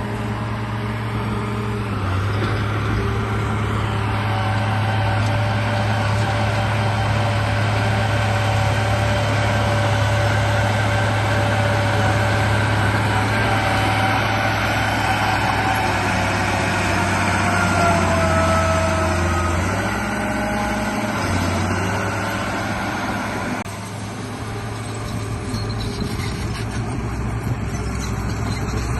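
Radio-controlled bulldozer running: a steady low hum under whining tones that rise and fall in pitch as it works. The sound drops and changes abruptly about three-quarters of the way through.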